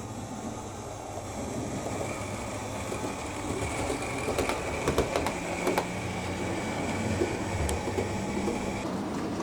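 OO gauge model train running along the track, getting louder, with a steady high whine and a run of sharp clicks over the rail joints about halfway through.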